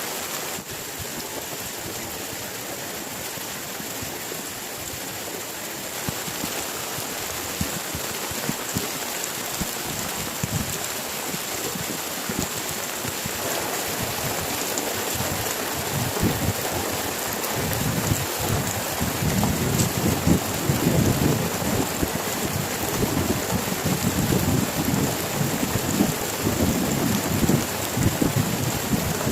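Heavy rain falling steadily, with a low rumble of thunder that builds about halfway through and carries on to the end.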